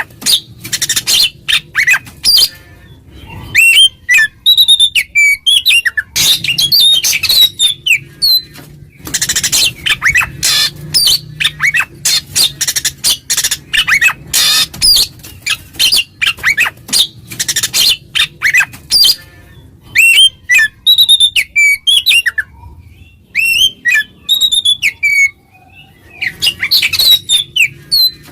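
Oriental magpie-robin (kacer) singing loudly in its open 'ngeplong' challenge song: fast runs of harsh, scratchy notes mixed with quick whistled slurs, broken by brief pauses. This is the song that calls out a rival male.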